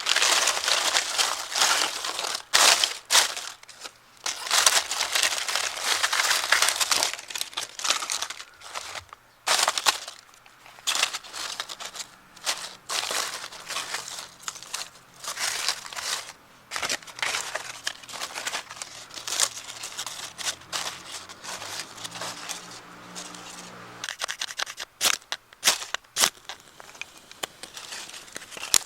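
Crinkling and rustling in irregular bursts, something being crumpled and handled at close range.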